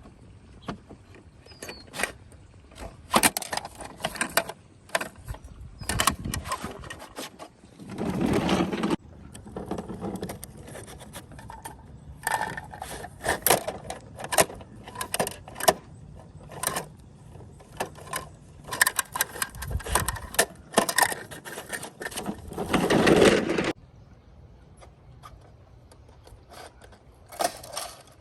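Toy garbage trucks being handled and played with: irregular plastic clicks, knocks and scraping, with two louder rattling, scraping stretches of about a second each, one around 8 seconds in and one near 22 seconds.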